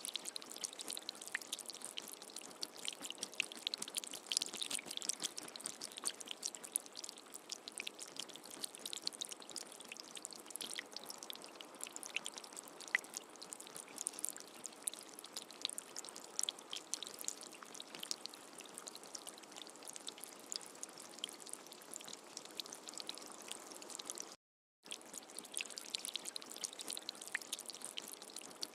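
Steady rain: a dense patter of drops with many small sharp hits over a hiss. It cuts out completely for about half a second near the end, then resumes.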